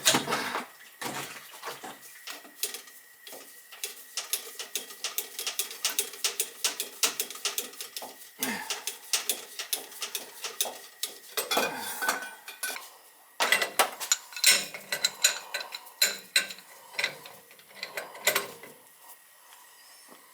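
Metal hand tools and boiler fittings clinking and clanking: quick runs of sharp metallic knocks, in two long bursts with a short break about two-thirds of the way through.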